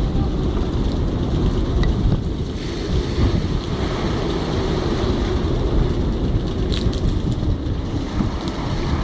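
Jugo storm wind buffeting the microphone: a loud, continuous low rumble that swells and dips in gusts, with a few faint ticks about seven seconds in.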